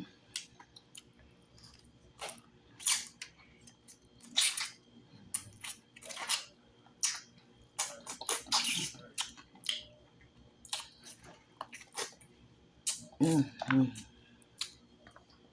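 Close-miked eating sounds of someone chewing fried turtle meat: irregular wet chewing, lip smacks and fingertip sucking. A short hummed "mm" comes about 13 seconds in.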